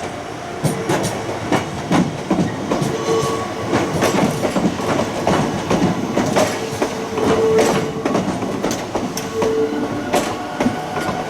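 Iga Railway electric train passing close by, its wheels clacking irregularly over rail joints, with brief steady tones mixed in.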